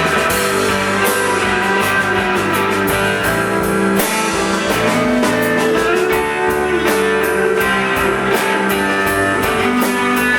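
Live rock band playing an instrumental passage between sung lines: guitars over bass and a drum kit keeping a steady beat.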